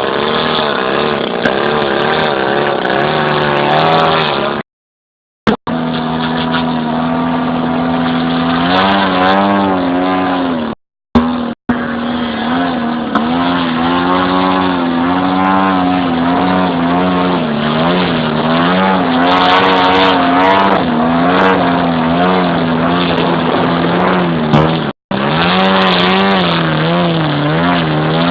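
Desert Aircraft DA-100 twin-cylinder two-stroke petrol engine of a large radio-controlled Yak 54 aerobatic plane running in flight, its pitch wavering up and down as the plane passes and the throttle changes. The sound drops out completely for a moment three times.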